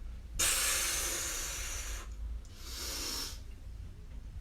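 A person's forceful breaths out during an exercise: two long, noisy exhales, the first about a second and a half long, the second shorter about three seconds in.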